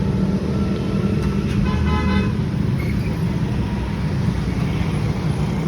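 Car engine running at low speed with a steady low rumble as the car pulls away, and a car horn tooting briefly about two seconds in.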